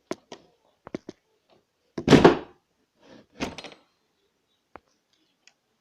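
A few sharp clicks and knocks, then two louder thumps with a rustle, about two and three and a half seconds in.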